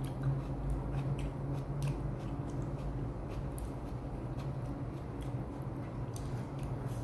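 Close-miked chewing of a mouthful of food, with soft, scattered wet clicks and smacks over a steady low hum.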